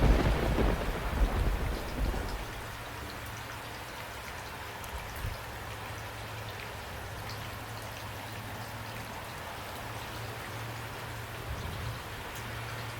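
Steady rain falling, with a loud low rumble of thunder in the first two seconds or so that rolls and fades away.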